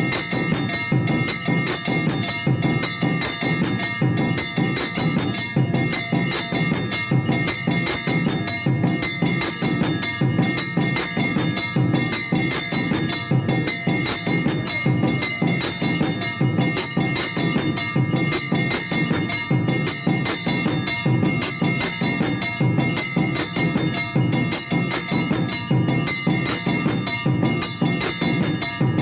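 Temple bells ringing nonstop, with fast, dense percussion strikes under them, as during an evening aarti.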